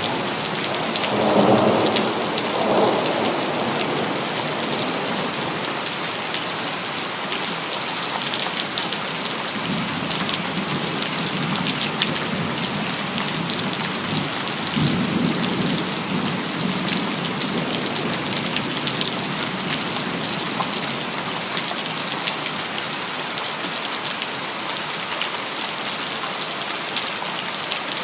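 Steady heavy rain hissing, with a thunder rumble about a second in and a second roll just after, the loudest moments. Softer low rumbles of distant thunder come again mid-way.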